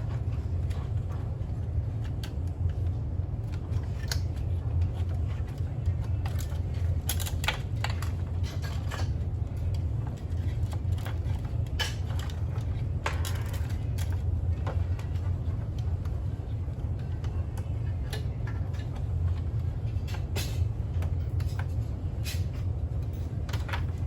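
Scattered light clicks and knocks, like small parts and tools being handled during repair work, over a steady low hum.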